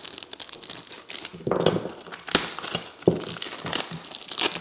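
Packaging of a pack of wall outlet covers crinkling and tearing as it is pulled open by hand, in irregular bursts with a few sharper rips.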